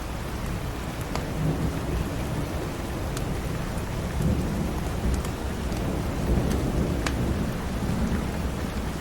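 Steady heavy rain with a low rolling thunder rumble that swells through the middle, and scattered sharp crackles and pops from a wood fire in a fireplace.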